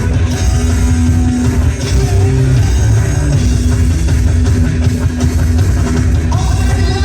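Loud rock music with electric guitar and drums, playing without a break.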